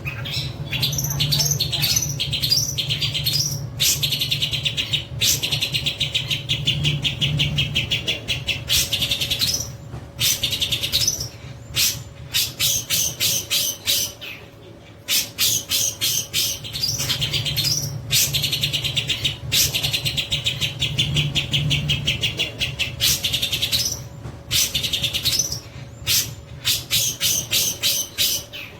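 Long-tailed shrike (cendet) singing in fast volleys of sharp, rapidly repeated high notes, its 'tembak' (shooting) style, each volley breaking off after a few seconds and starting again. A low steady hum runs underneath.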